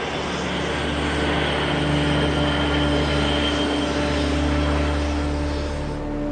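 Antonov An-225's six turbofan jet engines running, a steady jet-engine noise with a faint high whine that swells slightly over the first couple of seconds.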